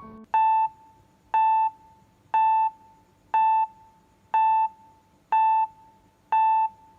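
An electronic beeper sounding seven short, identical beeps, evenly spaced about one a second.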